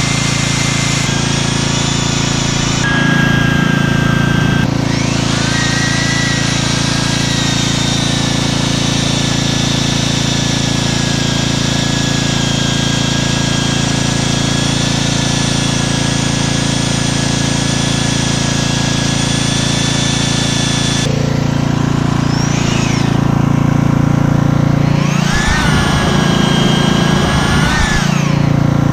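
Concrete core drill running as it bores through a concrete wall, its motor pitch sagging and recovering under load near the end.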